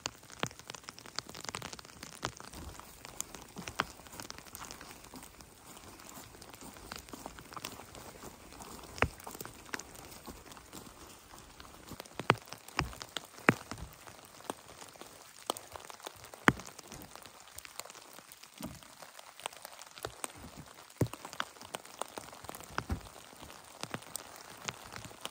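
Rain falling, with single heavier drops striking a surface at irregular intervals over a faint steady hiss; the loudest drops come in the middle stretch.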